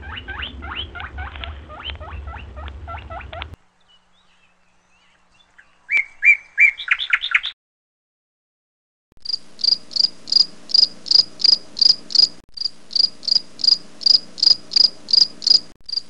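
Quick chattering bird calls over a low rumble, then a brief run of rising notes, then from about halfway through a high, cricket-like chirp repeated evenly about three times a second.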